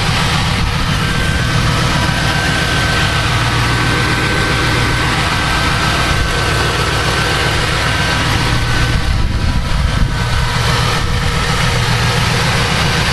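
1999 Lincoln Town Car's 4.6-litre V8 idling steadily, with a thin steady whine above the low engine pulse. The car has an exhaust leak.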